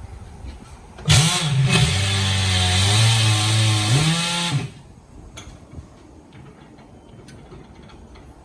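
Pneumatic impact wrench running in one burst of about three and a half seconds with a loud airy whine, starting about a second in. Its pitch drops and holds as it bogs down under load, then rises again just before it cuts off sharply.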